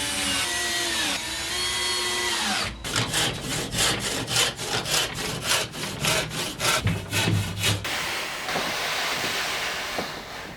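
Power drill whining in short runs, its pitch rising and falling as it drives into wood, then a hand saw cutting timber in steady strokes about two to three a second, followed by a steady hiss.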